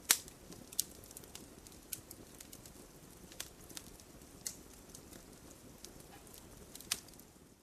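Wood fire crackling, with irregular sharp pops over a low steady hiss; the loudest pop comes right at the start.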